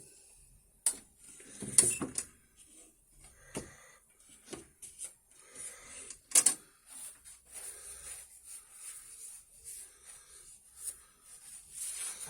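Objects being handled: irregular clicks, knocks and light clatter, the sharpest about two seconds and six and a half seconds in, over a faint steady high hiss.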